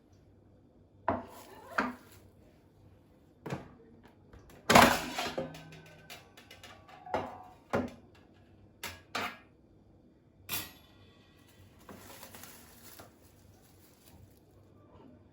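Dishes and cutlery being handled, with about ten separate clinks and knocks; the loudest comes about five seconds in, and there is a short scraping rustle near the end.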